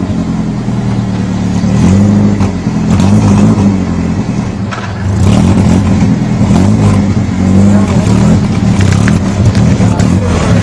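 Car engine revving up and down repeatedly, easing off briefly about four to five seconds in.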